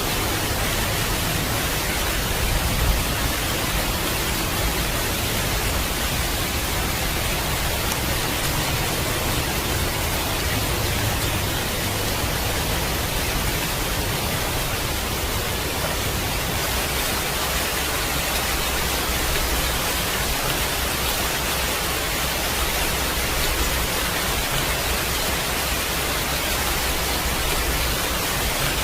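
Heavy rain falling in a steady, dense hiss, with a low rumble underneath.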